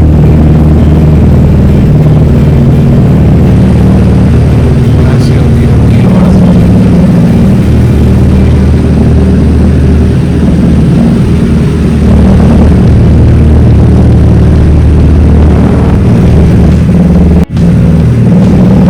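Motorcycle engine running steadily under way, with a short sharp break about seventeen seconds in.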